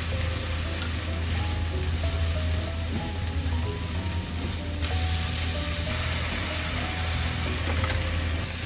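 Food sizzling as it fries in hot oil, the sizzle growing brighter about halfway through, over background music with a simple stepping melody.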